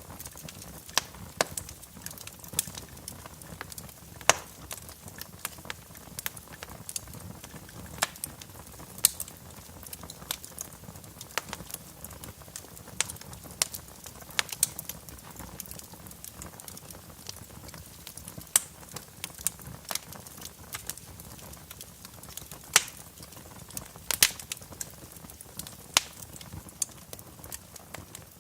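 Wood fire in a fireplace crackling: irregular sharp pops and snaps over a low steady hiss, with a few louder pops scattered throughout.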